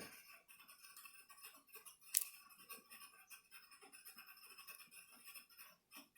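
Faint small clicks and scratches of hand tools and fingers working on an opened laptop's internals, with one sharp click about two seconds in.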